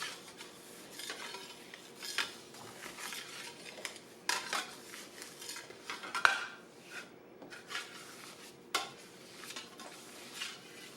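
Dough scraper scraping and knocking on a countertop in irregular strokes, with a few sharper clacks, as a sourdough loaf is dragged around to tighten its surface during shaping.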